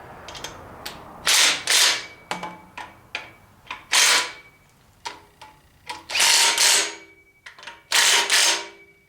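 A wrench tightening the bolts that hold an engine stand adapter to an engine block: short loud bursts a second or two apart, some in quick pairs, with a faint ringing metal tone after them.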